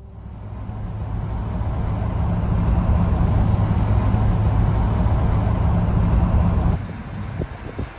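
Diesel pickup truck driving on the highway: a steady low rumble of engine and road noise that fades up over the first couple of seconds, then drops suddenly to a quieter level near the end.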